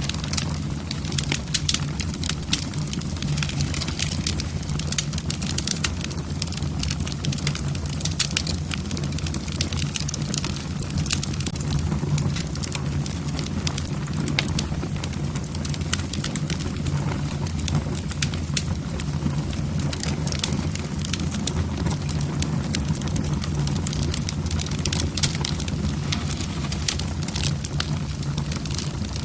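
Wood fire in a fireplace, the logs crackling with frequent irregular sharp pops over a steady low hum.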